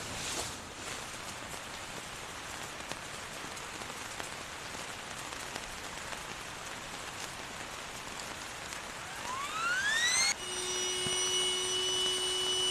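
Heavy rain falling as a steady hiss. Near the end a whistle-like tone rises in pitch for about a second, then the sound cuts off abruptly into a steady high-pitched hum of several held tones.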